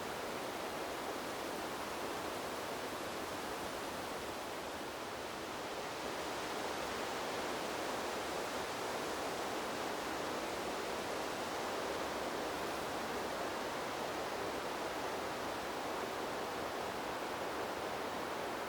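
Wind blowing through a bamboo grove: a steady, even noise that eases slightly about four seconds in and then swells again.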